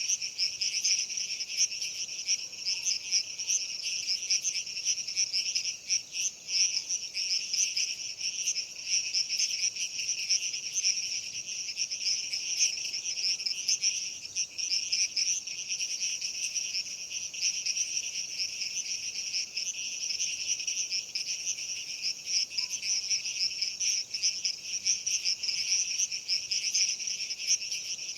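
A dense, continuous chorus of insects such as crickets, many shrilling at once in a high register without a break.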